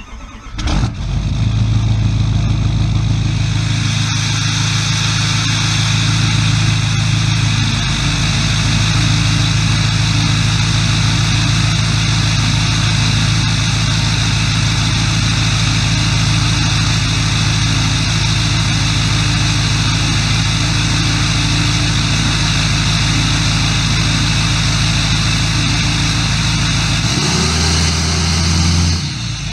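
Chevrolet Duramax diesel engine cold-started after sitting for a couple of weeks: a brief crank, then it catches and runs steadily at a loud, even idle. Its tone shifts near the end.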